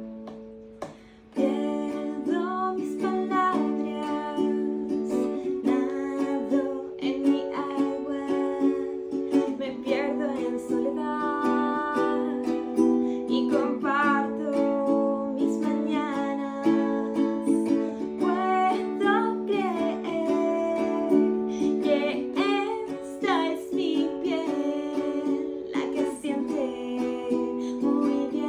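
A woman singer-songwriter singing a slow song over sustained chords on an acoustic string instrument; the voice comes in about two seconds in, after a brief pause.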